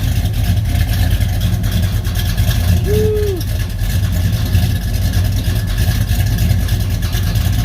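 Duster's engine idling through its newly fitted dual exhaust and mufflers, steady and low, with a rattle from a tailpipe banging on something. A brief high tone comes about three seconds in.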